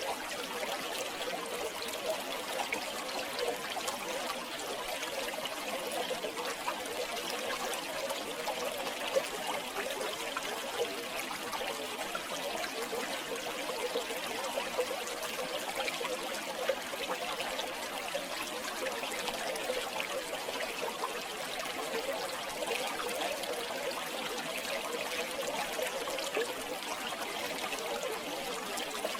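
River water flowing and trickling steadily, with a bubbling, splashing texture.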